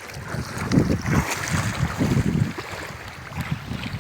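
River water rushing with wind buffeting the microphone, giving uneven low rumbles for the first couple of seconds.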